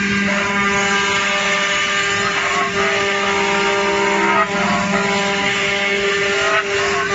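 Woodworking CNC boring machine running, its motors giving a steady whine over a hiss, with brief dips and shifts in pitch about three times as it works.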